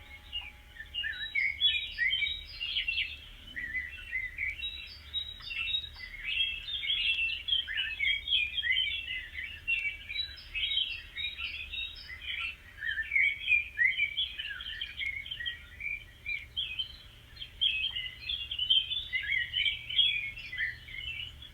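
Many small birds chirping and twittering at once in a dense, overlapping chorus of short, quick calls.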